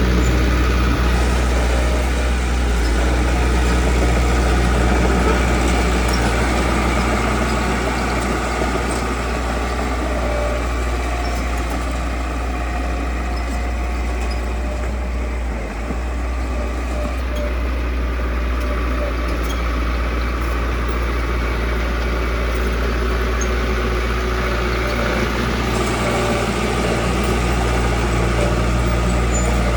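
Heavy construction machine's engine running steadily with a deep, even rumble.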